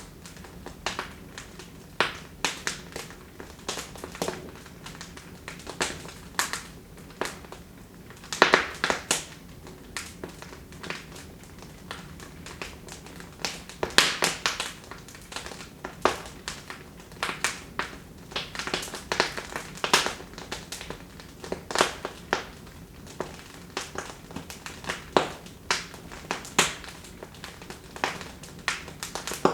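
Wood fire crackling in a fireplace: irregular sharp pops and snaps, some in quick clusters, over a low steady hum.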